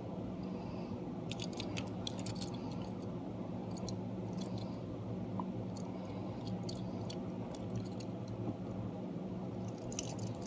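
Scattered light clicks and taps, like small objects being handled, over a steady low hum.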